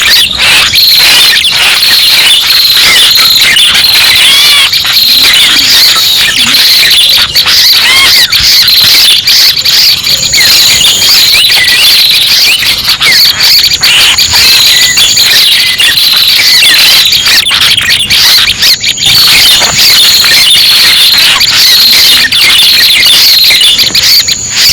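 Lure-call recording of red-headed prenjak birds: many quick, high, squeaky chirps and trills overlapping with no break, played loud to draw the birds in for trapping.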